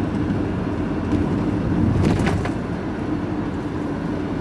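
Steady engine drone and road noise inside a moving lorry's cab, with a short clatter of clicks about halfway through.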